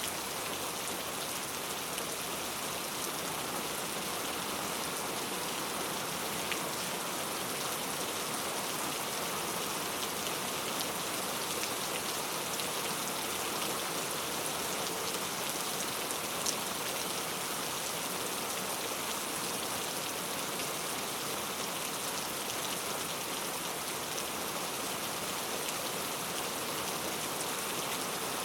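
Steady rain falling, an even hiss with an occasional sharper drop tick.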